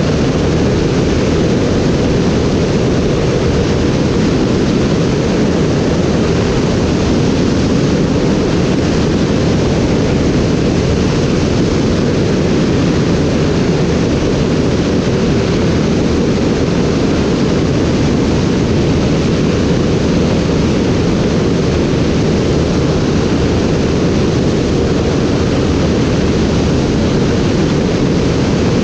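Steady, loud rushing noise of an aircraft in flight, heaviest in the low range and unchanging throughout.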